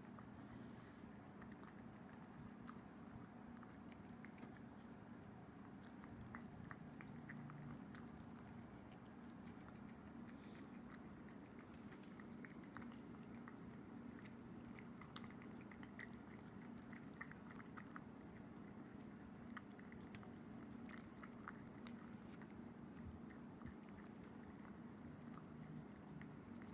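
A kitten chewing wet cat food: faint, scattered small clicks of its mouth over a steady low hum.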